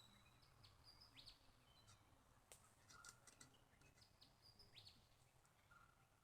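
Near silence, with faint bird chirps in the background: a short whistled phrase about a second in, repeated at about four seconds, and a few faint clicks.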